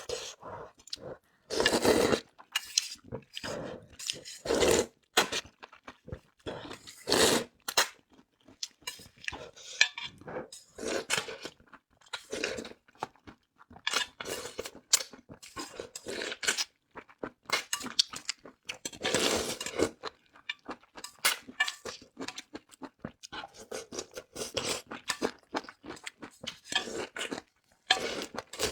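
Close-miked eating sounds of a mukbang: chewing and slurping spicy noodles in irregular bursts, with a few longer slurps.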